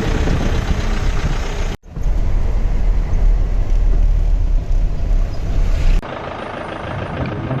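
Safari jeep's engine and road noise while driving, a steady heavy low rumble. It cuts out for a moment about two seconds in, and drops suddenly to a quieter level about six seconds in.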